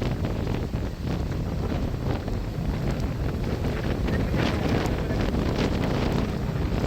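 Wind blowing across the microphone, a steady rushing rumble that swells in gusts.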